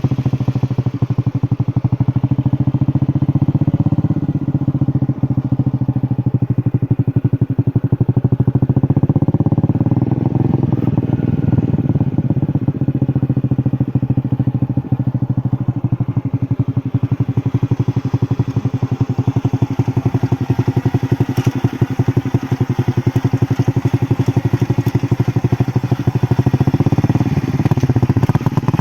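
An engine running steadily with a rapid, even pulsing.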